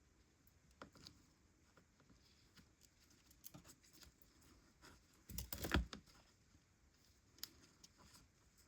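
Faint rustling and small clicks of hands working yarn through a crocheted piece, with a louder rustle and bump a little past five seconds in.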